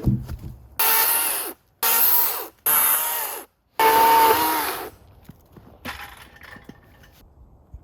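A small power tool running in four short bursts with a steady whine, each starting and cutting off abruptly, between about one and five seconds in.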